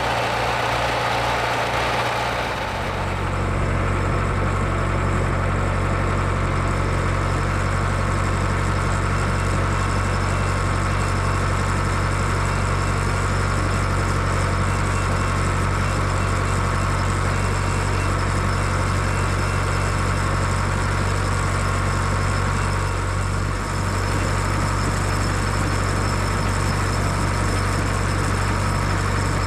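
Ford 6610 tractor's four-cylinder diesel engine running steadily. Its note shifts about two and a half seconds in and then holds even.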